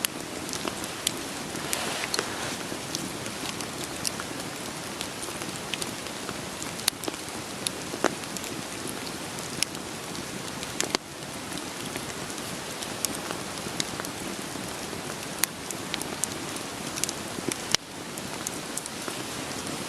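Steady rain falling, mixed with a wood fire crackling: a constant hiss of rain with sharp, irregular pops and snaps of burning logs.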